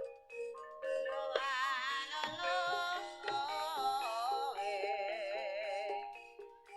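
Gamelan music for an ebeg dance: struck metallophone notes ringing, with a high melody line wavering in a strong vibrato over them from about a second in.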